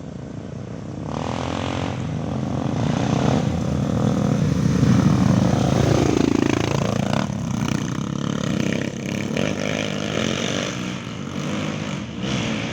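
Trail motorcycle engines running and revving, one bike's pitch rising and falling as it passes about six seconds in.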